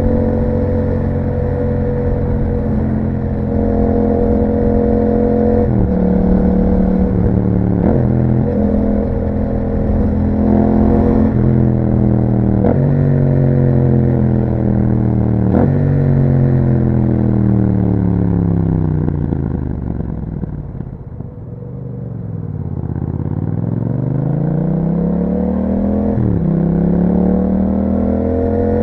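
Yamaha MT-07 parallel-twin engine through an Akrapovic exhaust, accelerating up through the gears: the pitch climbs and then drops sharply at each upshift, several times. Past the middle the revs fall steadily as the bike slows off the throttle, then build again with two more upshifts near the end.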